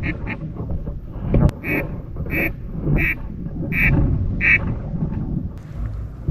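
Duck quacking: a series of five loud, evenly spaced quacks about two-thirds of a second apart, over a low wind rumble.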